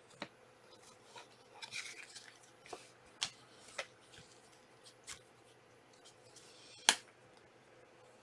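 Trading cards and their packaging being handled: a short rustle about two seconds in and several sharp clicks and taps, the loudest near the end.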